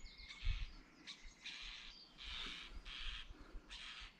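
Faint wild birds calling: a string of short, raspy calls repeating about every half second to a second, with a few low thumps.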